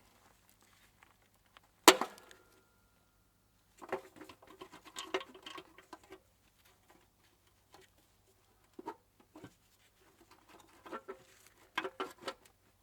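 Small metal parts and tools being handled and set down on a hard surface. One sharp metallic clink about two seconds in rings briefly, and bursts of light clattering and clicking follow.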